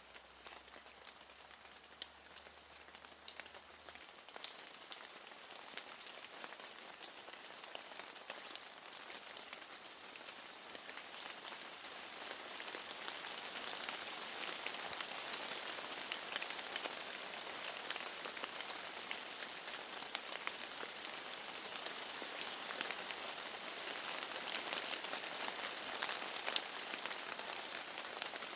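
Steady rain falling, with many small, sharp drop taps through the hiss. It gets louder about twelve seconds in.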